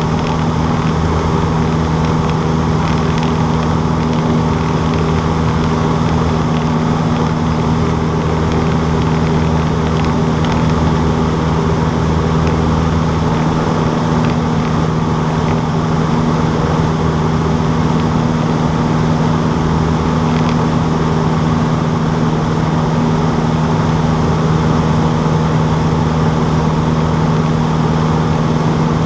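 Cessna 152's four-cylinder Lycoming O-235 engine and propeller running steadily, a constant drone with a strong low hum that holds one pitch throughout.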